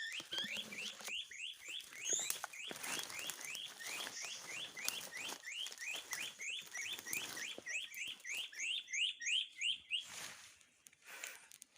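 A long run of short, rising bird-like chirps repeated evenly, about three or four a second, stopping shortly before the end. Scattered clicks and rustles can be heard beneath them.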